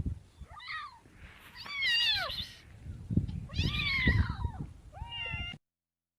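Domestic cat meowing, about four separate meows that each fall in pitch. The sound cuts off abruptly near the end.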